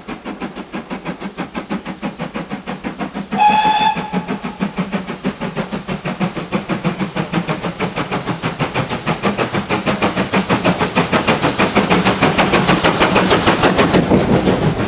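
GWR Modified Hall class two-cylinder steam locomotive working hard, its exhaust beating about five times a second. A short whistle sounds about three and a half seconds in, and the exhaust beats grow louder as it passes, loudest near the end.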